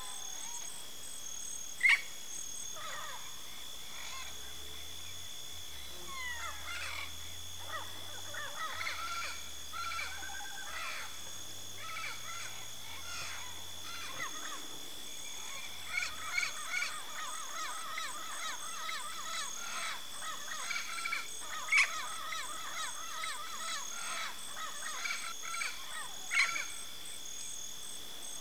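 Yellow-faced parrots calling: sharp, loud squawks about two seconds in and twice near the end, with long stretches of softer rapid chattering calls in between. A steady high-pitched drone runs underneath.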